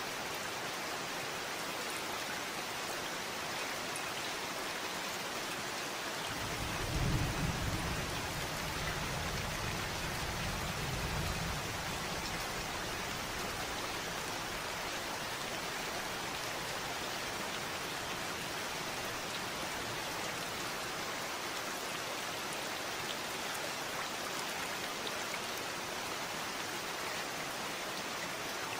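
Steady rain falling, with a low rumble of thunder from about six to eleven seconds in.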